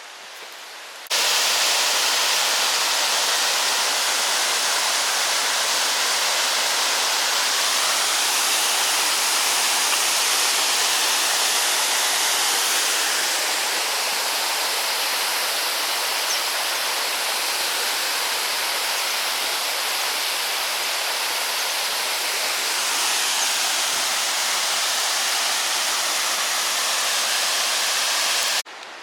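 Steady rushing water, like a small waterfall or fast stream, starting abruptly about a second in and cutting off abruptly near the end.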